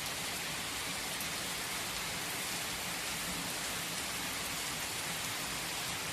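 Steady, gentle rain falling, an even hiss of many drops with no single drop or thunderclap standing out.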